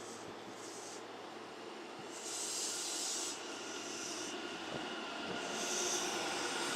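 Kintetsu electric train running through a station, a steady rumble with hissing that swells three times.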